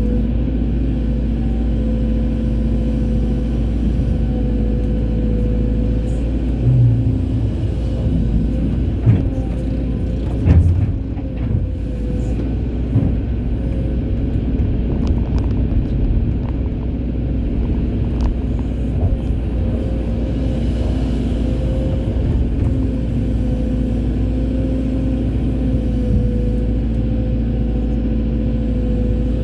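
Hydraulic excavator's diesel engine running steadily with a wavering hum, with a few sharp knocks between about a quarter and a third of the way in.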